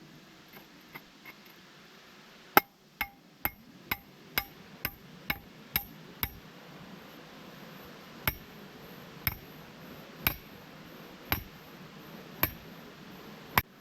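Hammer blows, each with a short metallic ring: a quick run of about eight strikes, then six slower, evenly spaced ones.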